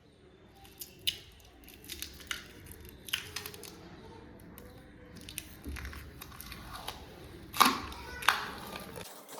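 Scattered light clicks and knocks of handling and work, with two louder knocks near the end.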